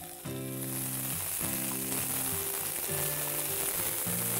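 Parboiled green peas sizzling in hot oil in a frying pan, the hiss spreading and growing from about half a second in as the peas go in, over background music with held notes.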